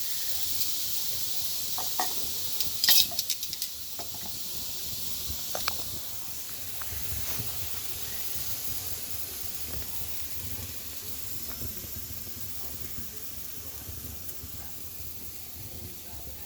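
Food sizzling over a wood fire, a steady hiss that slowly fades, with a quick cluster of sharp pops about three seconds in.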